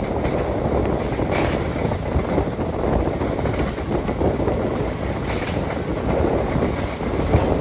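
Passenger train running along the line, heard from an open coach door: a steady rumble of the coaches' wheels on the rails.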